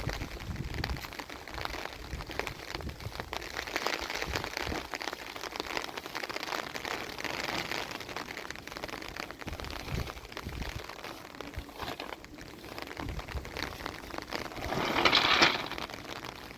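Rain falling on surfaces, a steady patter of many small drops, with a brief louder noise about fifteen seconds in.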